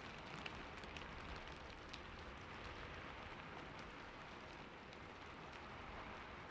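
Steady rain falling on a roof, an even hiss with scattered individual drop ticks.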